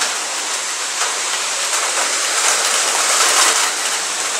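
Heavy downpour falling in a dense, steady hiss that sounds like hail.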